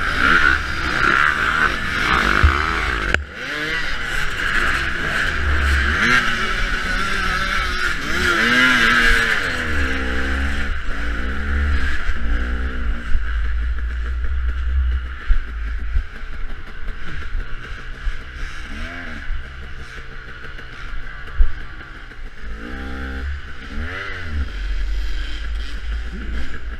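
Dirt bike engine revving up and down over and over as it is ridden through an off-road course, with a low rumble underneath and a few sharp knocks.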